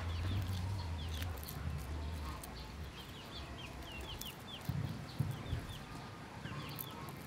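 Birds chirping: short high calls, each dipping in pitch, repeated in quick clusters. A low hum runs under the first three seconds, and a few dull thuds come about five seconds in.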